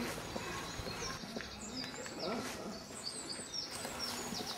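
Small birds chirping, with short high notes and a quick trill of repeated notes near the end, over steady outdoor background noise.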